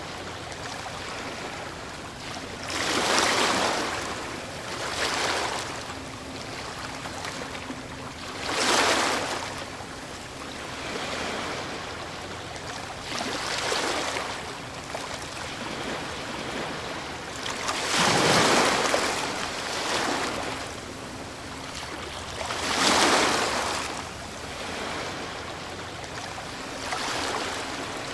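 Ocean surf: waves breaking and washing up the shore, each one a rising and falling rush of spray. The surges come every few seconds, the biggest about three, nine, eighteen and twenty-three seconds in.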